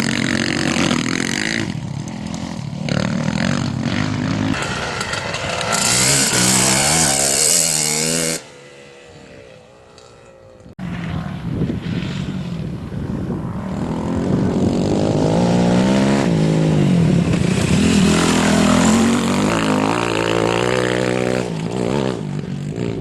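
Racing motorcycle engines revving and passing, the pitch climbing and dropping through gear changes. About eight seconds in the sound drops abruptly to a quieter, more distant engine for a couple of seconds, then cuts back to a loud nearby engine.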